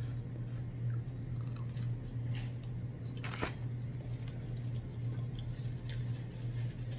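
Close-miked chewing and biting of fried catfish and fries, with small crunches and wet mouth sounds, and a brief rustle about three and a half seconds in. A steady low hum runs underneath.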